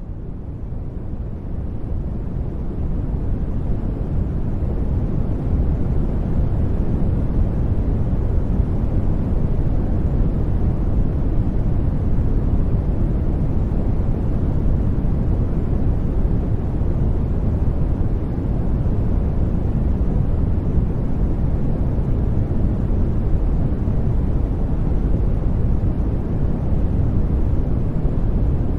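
Steady sleep noise with no voice or tune, its energy heavy in the low end, like a deep hiss. It fades in over the first few seconds, then holds even.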